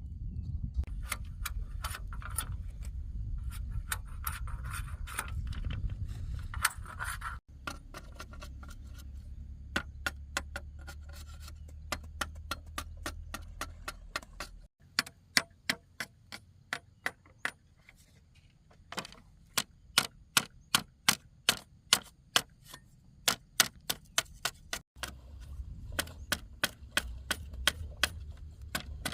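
Repeated sharp knocks of a hand tool striking wood or bamboo, about two to three a second, over a low steady rumble, breaking off abruptly a few times.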